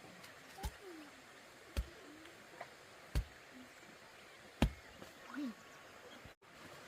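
Four heavy, sharp knocks, spaced about a second and a half apart, like a tool being swung in repeated blows.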